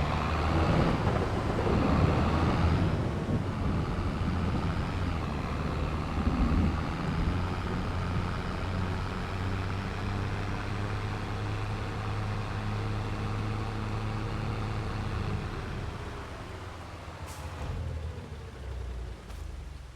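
Tractor engine running steadily, fading away over the last few seconds, with two brief clicks near the end.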